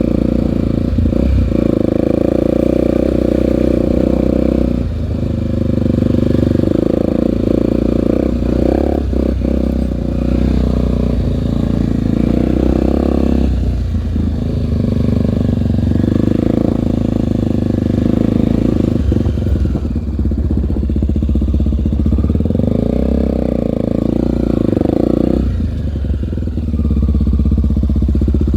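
Honda single-cylinder four-stroke trail motorcycle engine running under way, its revs rising and falling several times with short drops in engine note, as under throttle changes while riding.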